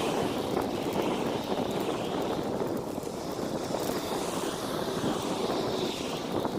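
Wind buffeting the microphone on a moving bicycle: a steady rushing noise.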